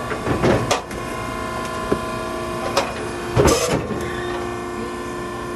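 Maren hydraulic cardboard baler's power unit running with a steady hum, broken twice by a louder noisy burst about three seconds apart, with a couple of sharp clicks between.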